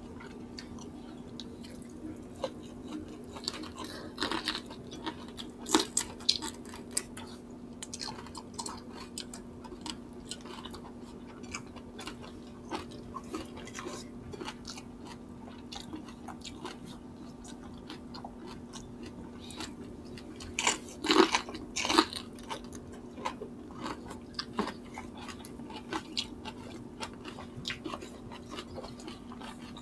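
Chewing and biting of people eating chicken sinigang with rice and vegetables by hand: a run of small wet clicks and crackles from mouths and fingers, louder about four to six seconds in and again around twenty-one seconds.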